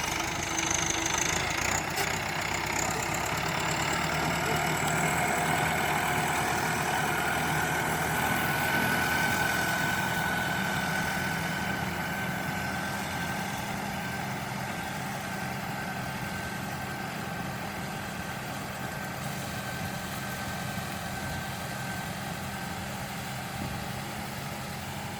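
Mahindra tractor diesel engine running steadily, with a thin whine riding above the engine note.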